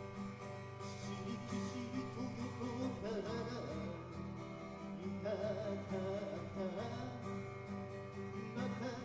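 Acoustic guitar strumming an instrumental break between verses of a live song, with a wavering melody line carried over the chords in the middle.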